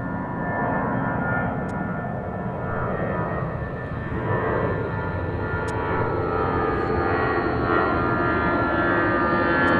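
Airbus A319 jet airliner's engines running: a dense jet noise with several steady whining tones that gradually grows louder.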